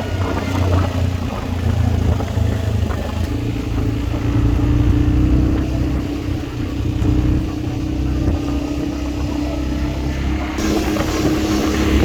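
Quad bike engine running steadily, its note changing about three seconds in.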